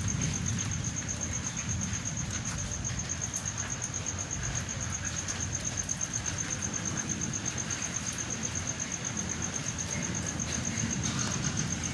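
Cricket chirping in a steady, fast, evenly pulsed high trill, over the low steady rumble of the thunderstorm.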